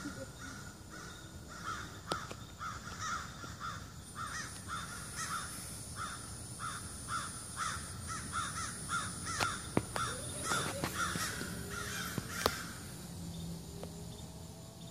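Birds calling over and over, short harsh calls about two a second that stop shortly before the end, with a few sharp clicks among them. It is the birds' clamour that gave away the black bear close by.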